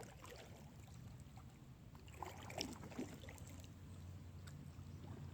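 Faint water sounds around a kayak aground in shallow brushy water, with a few light knocks and clicks about halfway through.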